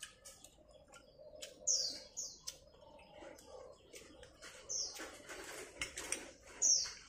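A bird chirping: short, high calls that slide downward, a pair about two seconds in and single ones near five seconds and near the end. Faint clicks of spoons against small ceramic bowls lie under them.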